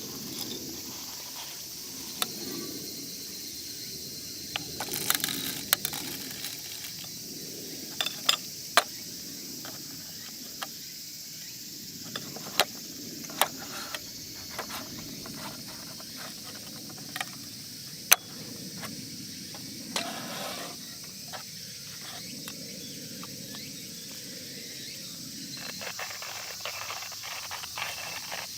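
Steady outdoor background hiss with scattered sharp clicks and taps, the loudest about 18 seconds in.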